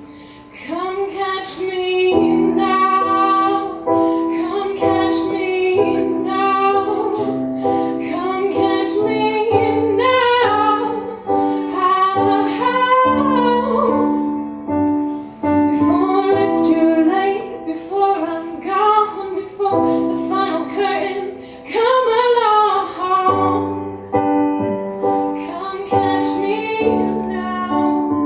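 A song: a female voice singing a melody over a keyboard accompaniment of held chords.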